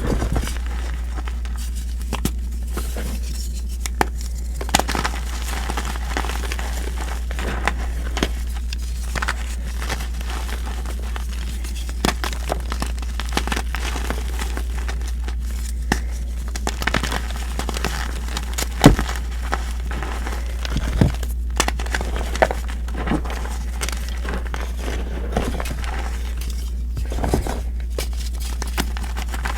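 Reformed gym chalk being crushed and crumbled, a run of irregular crunchy, gritty crackles with one louder crunch about two-thirds of the way through, over a steady low hum.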